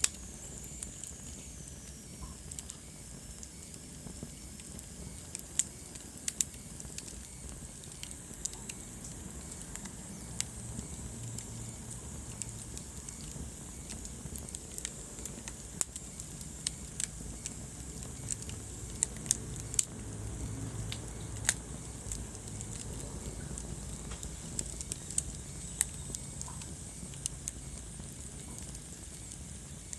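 Wood fire burning in a fireplace, crackling with sharp, irregular pops over a low, steady rumble of the flames.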